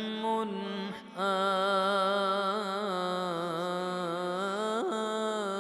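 A man's voice chanting an Arabic ibtihal, drawing out a long, ornamented melismatic note. The note breaks off briefly about a second in, then is held with small wavering turns and slides in pitch near the end.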